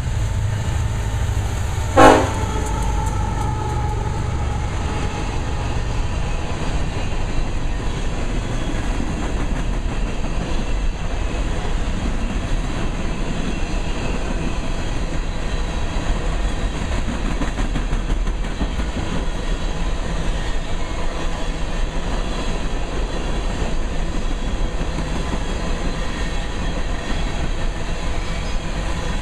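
A BNSF SD70ACe diesel locomotive and its trailing units pass with a deep engine rumble for the first few seconds, with one sharp, loud clank about two seconds in. Then a long string of empty coal hopper cars rolls by with steady wheel-on-rail noise and clickety-clack.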